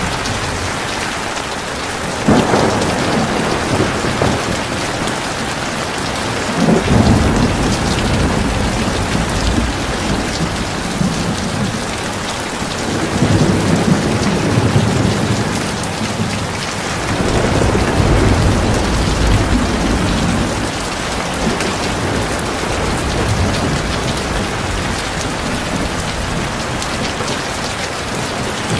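Heavy rain falling steadily, with rolls of thunder rumbling low beneath it; one roll breaks in suddenly about two seconds in and another near seven seconds, with more rumbling through the middle.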